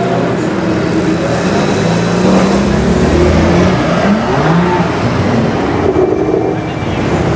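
BMW 1M's twin-turbo straight-six with an aftermarket exhaust, accelerating loudly; the engine note rises and falls a few times as it revs through the gears.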